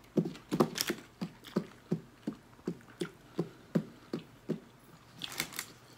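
Close-miked chewing of a mouthful of food, soft wet chews at about three a second for roughly four seconds, then a short louder noise near the end.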